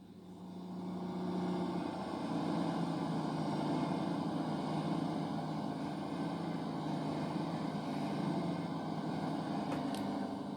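CrossCountry Class 220 Voyager diesel train, two units coupled, passing through with engines running; the sound swells in over the first two seconds, holds steady, and starts to fade near the end.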